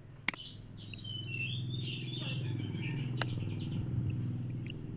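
Birds chirping in the background over a steady low hum, with two sharp clicks, one just after the start and one a little past the middle.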